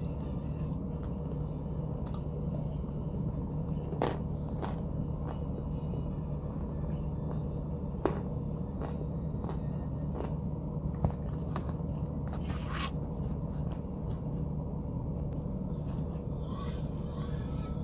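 Close-up chewing of crumbly white chalky chunks: soft, scattered crunches and mouth clicks, a few sharper ones about four, eight and eleven seconds in. A steady low hum sits under all of it.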